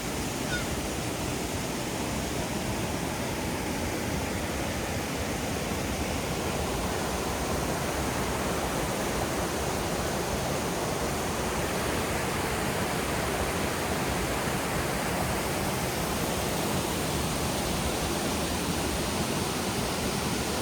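Waterfall's water falling and rushing steadily, an even, unbroken noise.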